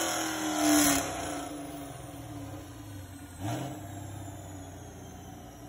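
A 2016 Camaro SS's 6.2-litre LT1 V8 winding down on a chassis dyno at the end of a pull: the engine note falls in pitch with a loud swell about a second in, then drops to a quieter, low steady idle. A short sharp burst, such as a quick throttle blip, comes about three and a half seconds in.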